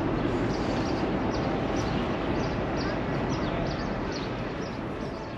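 Small birds chirping, with short high falling calls about two to three a second, over a steady low background rumble.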